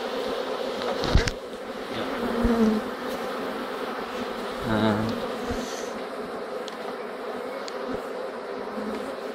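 Honeybees buzzing around an open hive, a dense steady hum, swelling briefly louder about two and a half and five seconds in, with a short knock just after one second.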